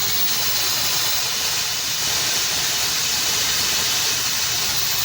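Slopehill Pro hair dryer with a high-speed brushless motor, running on no heat: a steady rush of air with no droning motor hum.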